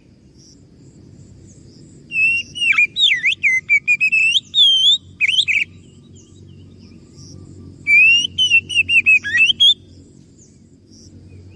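Oriental magpie-robin (kacer) singing two bursts of rich, varied whistled song, each a couple of seconds long with rapid swooping and chattering notes, over a faint steady low hum.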